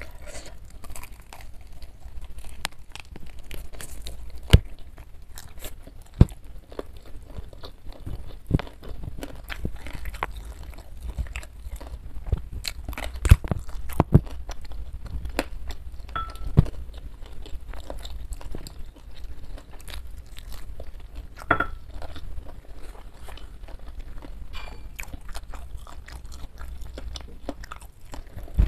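Close-miked mouth sounds of someone eating crispy fried chicken by hand: chewing with frequent irregular sharp crunches.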